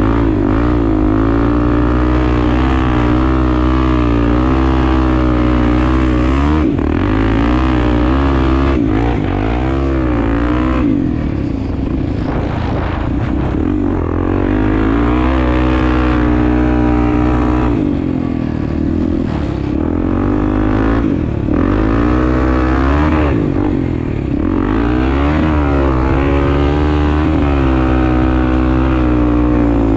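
Honda Tornado 250 single-cylinder four-stroke dirt-bike engine under way off-road, its revs rising and falling over and over as the rider accelerates, shifts and rolls off the throttle.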